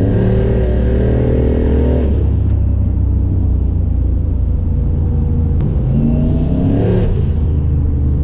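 Nissan 240SX accelerating hard under a deep, steady rumble. The engine note climbs and drops sharply at a gear shift about two seconds in, runs lower for a few seconds, then climbs again and drops at another shift near the end.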